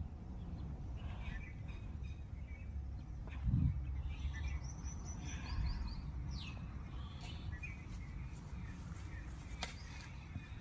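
Small birds chirping, with short high calls that drop in pitch, scattered over a steady low rumble; a dull thump about three and a half seconds in.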